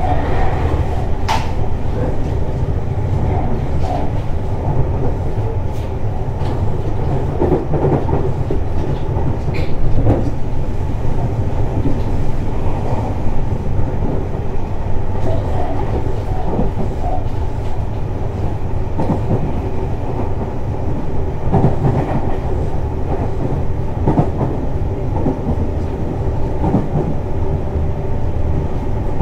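Tobu 60000 series electric multiple unit running between stations, heard from inside the car: a steady low rumble with wheels clicking over rail joints at irregular intervals, and a louder clack about ten seconds in.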